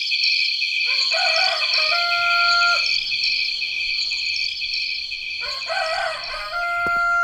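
Rooster crowing twice, about four seconds apart, each crow rising and then holding a note before it breaks off, over a steady high drone of crickets.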